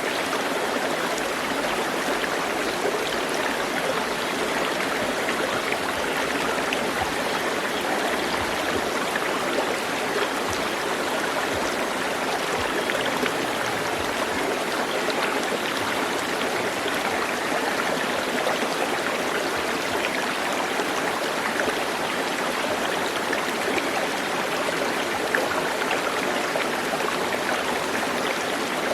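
Running water rushing steadily, like a stream, with fine splashes throughout.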